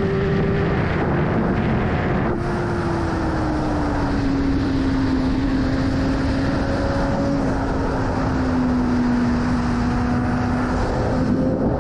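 BMW S1000RR inline-four engine running under heavy wind rush on the microphone. The engine note cuts briefly about two seconds in, then falls slowly in pitch as the bike eases off, and rises again near the end.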